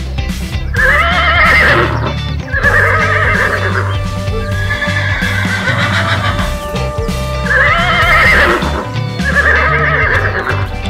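Horse whinny sound effects, five in a row with a longer one in the middle, each a wavering high call. The same recording seems to repeat, over background music with a steady low bass.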